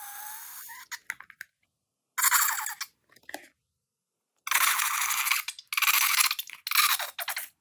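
Crunchy slime being squeezed and pressed by hand, crackling in bursts about a second long with silent pauses between them.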